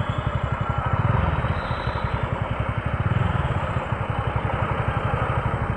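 Motor scooter engine running with a fast low pulsing, under a steady rushing noise.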